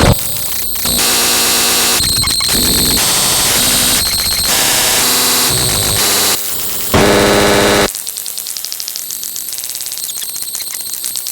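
Loud, harsh electronic static and buzzing noise that cuts abruptly from one texture to another every second or so, with a louder buzz about seven seconds in, then a quieter, rapidly fluttering buzz to the end.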